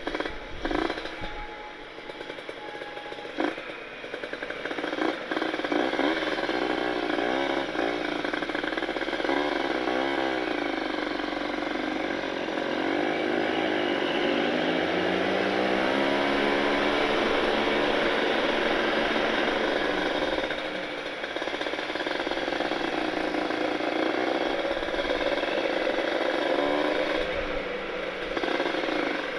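Kawasaki Ninja 150RR's two-stroke single-cylinder engine breathing through an Aitech carbon-kevlar expansion-chamber exhaust while riding. The pitch climbs and drops back several times as it accelerates through the gears, holds high and steady through the middle, and dips briefly about two-thirds through.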